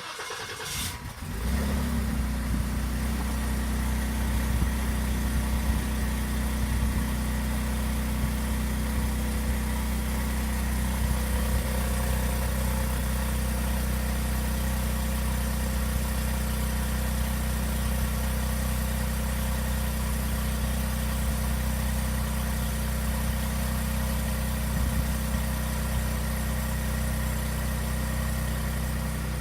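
Ford Fusion's twin-turbo V6 cold-starting: the starter cranks briefly, the engine catches, and it settles into a steady idle with no revs. The exhaust runs 3-inch aftermarket downpipes into the stock resonator and exhaust, and it is not too loud.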